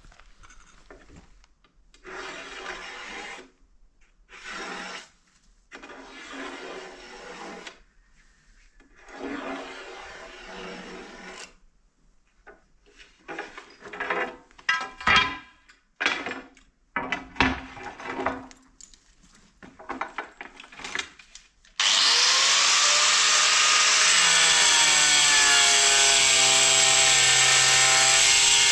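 Construction tool work: a series of short rasping strokes on wood. About 22 seconds in a power tool starts and runs loud and steady, its motor whine wavering in pitch.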